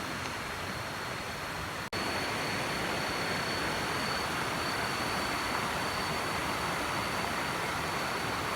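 Rushing river water flowing down from a waterfall, a steady even noise with a thin steady high tone over it. The sound drops out for an instant about two seconds in.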